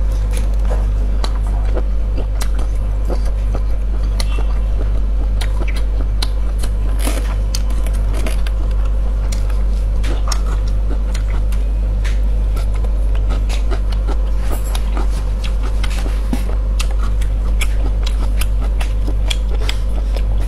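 Mouth sounds of biting and chewing a coiled pork sausage: many small, irregular wet clicks and smacks, over a loud, steady low hum.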